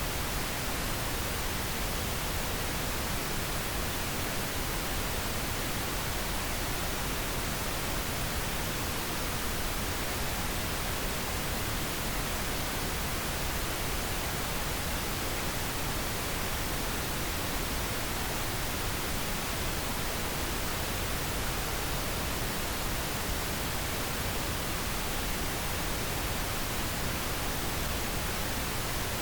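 Steady, unbroken pink noise: an even hiss spread across all pitches, with no changes or events.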